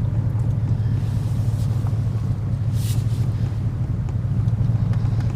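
Steady low rumble of a car driving slowly, heard from inside the cabin, with a brief hiss about three seconds in.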